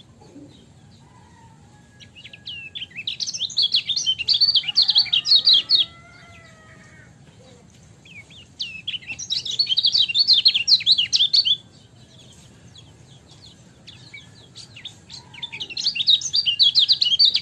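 Kecial kuning, a small white-eye, singing in three bursts of about three seconds each: rapid, high chattering strings of short chirps, with a few fainter whistles between the bursts.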